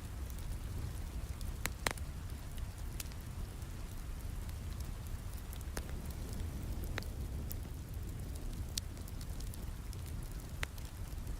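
Steady rain with a low rumble, over the scattered pops and crackles of a wood fire burning in a fireplace, one sharp pop about two seconds in standing out.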